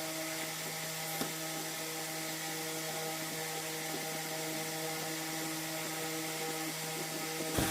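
A motor running at a steady speed, an even hum with one brief click about a second in.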